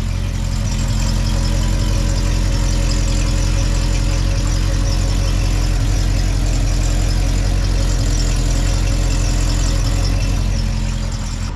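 Ford 390 FE big-block V8 idling steadily through a freshly fitted muffler on a temporary clamped exhaust, with an exhaust rattle.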